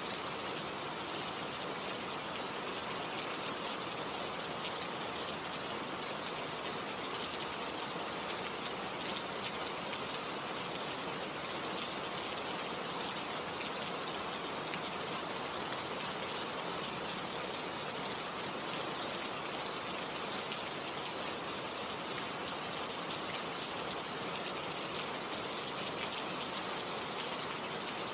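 Steady rain falling, an even hiss of drops with no change in intensity.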